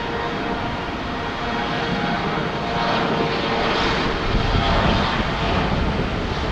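Jet airliner engines, a continuous rushing noise with a few steady tones in it, growing somewhat louder through the middle.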